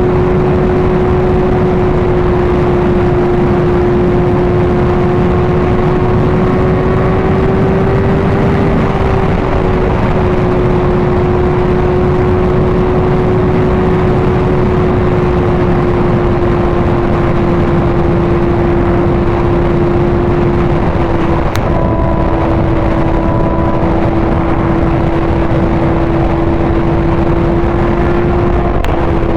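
Sport motorcycle engine at steady highway cruise, a constant high drone under heavy wind rush on the helmet-mounted camera's microphone. The engine pitch eases down slightly about two-thirds of the way through and again near the end, with a brief click at the first dip.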